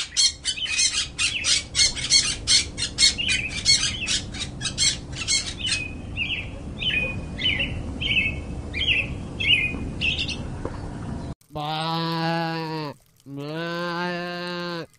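Birds chirping rapidly, several calls a second, then a slower run of short falling notes. Near the end the sound changes suddenly to two long animal calls held at one low, steady pitch, each lasting about a second and a half.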